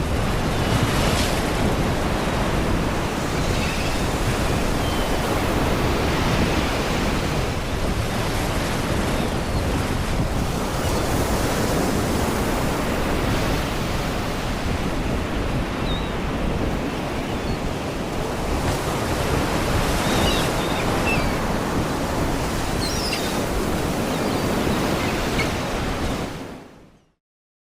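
Sea waves washing against rocks: a steady rush of surf that swells and eases every few seconds, with a few faint short high cries of seagulls in the second half. It fades out near the end.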